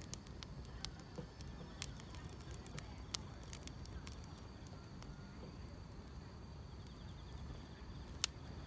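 Wood fire crackling, with scattered sharp pops (the sharpest near the end) over a low rumble, and grass insects trilling steadily and high behind it.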